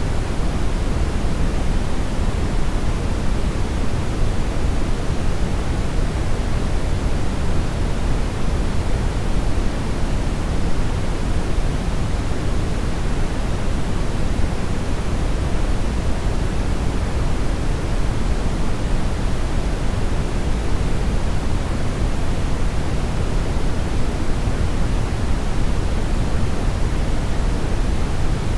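Steady brown noise: a continuous rushing hiss, weighted heavily toward the low end, with no changes or events.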